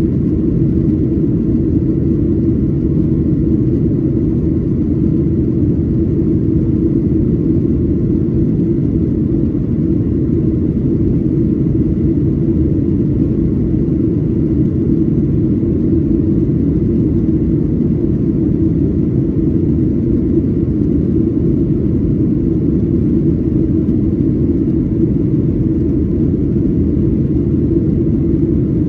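Steady low cabin roar of a Boeing 737-800 in the climb after takeoff, its CFM56-7B engines and airflow heard from inside the passenger cabin, with a faint steady high whine above it.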